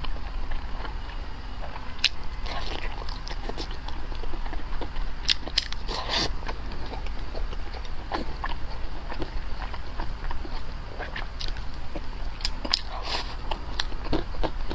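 Close-miked eating: biting and chewing, with many sharp mouth clicks and a few louder crunches.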